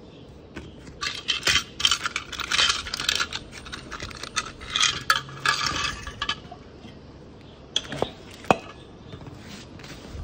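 Small metal parts and tools clinking and rattling as they are handled, in quick dense runs for several seconds, then a couple of sharp knocks near the end.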